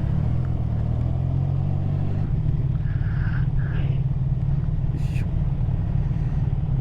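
Motorcycle engine running as the bike is ridden, its low note shifting about two seconds in, with a single click near the middle.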